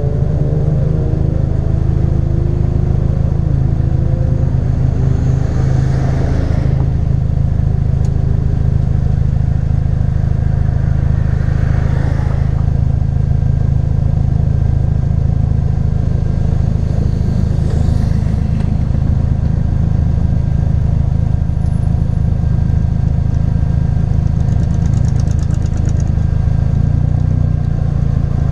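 2016 Ford Focus RS's turbocharged 2.3-litre four-cylinder running through a custom-fabricated exhaust, a steady low drone. The engine note falls in pitch at the very start, then holds steady, with brief whooshes about 6, 12 and 18 seconds in.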